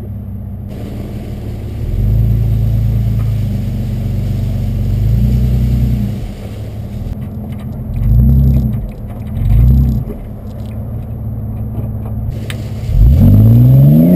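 Car engine driving slowly off-road, mostly at low revs with short throttle swells every couple of seconds, then revving up hard twice near the end.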